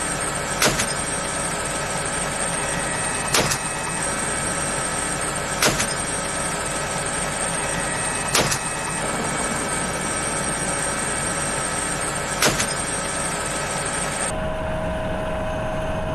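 Steady helicopter cabin noise, a loud even rush with a high turbine whine, broken by five sharp cracks a few seconds apart. About two seconds before the end the high whine drops away and a lower steady tone takes over.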